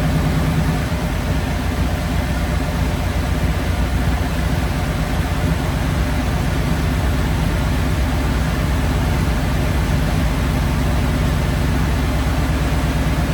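Ford flathead V8 idling steadily on its twin Holley 94 carburettors, an even low hum.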